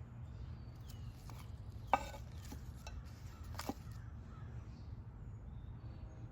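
Birds calling: a short harsh call about two seconds in and another near four seconds, with a few faint high chirps, over a steady low rumble.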